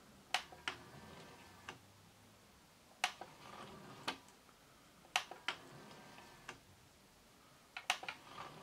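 1984 Yamaha CD-2 CD player's disc drive mechanism under test after a drive-belt replacement: about ten sharp, irregularly spaced clicks, some in close pairs, over a faint whir, as it works again.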